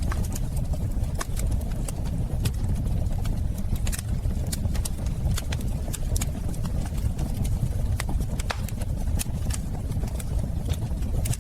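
Wood fire burning in a fireplace: a steady low rumble of flames with irregular sharp crackles and pops, a few every second.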